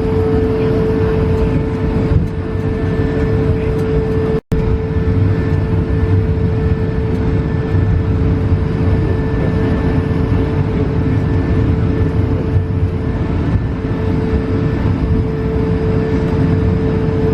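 Steady engine noise inside the cabin of an Airbus A220-300 with Pratt & Whitney PW1500G geared turbofans: a low rumble under a steady whine. The sound cuts out for an instant about four and a half seconds in.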